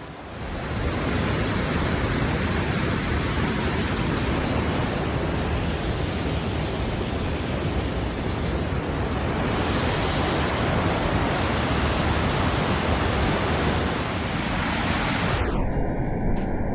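Steady rushing roar of a waterfall and creek in a rocky canyon, swelling in about half a second in. The water sound is cut off near the end, where a duller sound with the high end gone takes over.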